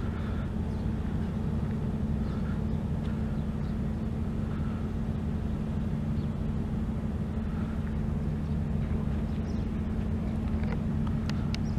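Steady engine hum holding one low pitch without rising or falling, over a bed of rumbling noise, with a few sharp clicks near the end.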